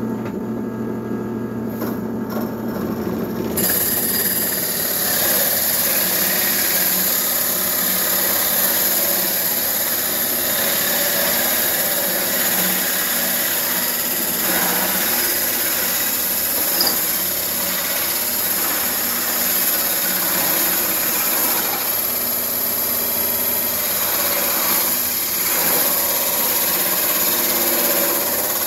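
Power drill running a hole saw: the motor spins up, and about three and a half seconds in the saw bites into the wood, cutting out a ring with a steady grinding hiss.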